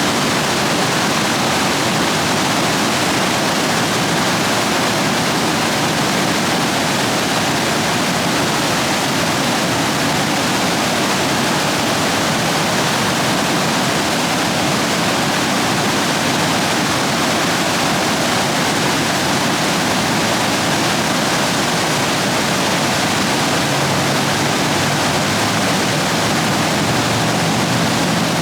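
Rapids in a stream swollen by heavy rain, water rushing and splashing in a steady, loud, even rush.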